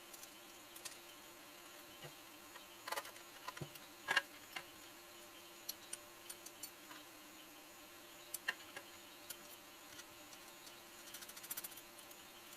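Faint steady buzz with scattered light clicks and taps, the loudest a few seconds in and again about two-thirds of the way through.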